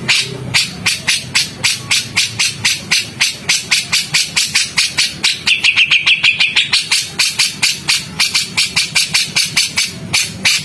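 Songbird calls in a rapid, harsh series of sharp notes at about four to five a second, with a short falling whistle about halfway through.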